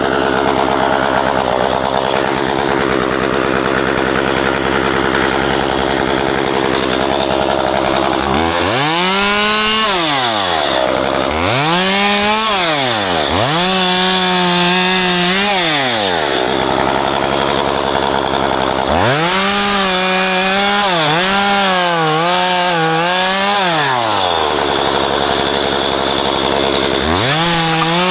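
Two-stroke chainsaw idling, then revved up to full throttle and let back to idle about five times. While held high the pitch dips and recovers at times, as when the chain bites into ficus branches being pruned.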